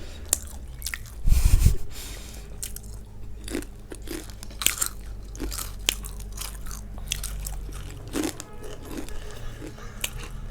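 Crunchy snack chips being bitten and chewed, with scattered sharp crunches, and one louder low thump about a second and a half in.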